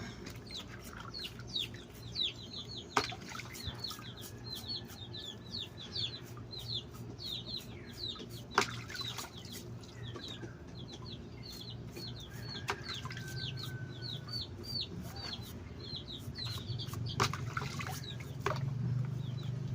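A small bird peeping over and over, short high chirps that fall in pitch, about two or three a second, with scattered sharp clicks.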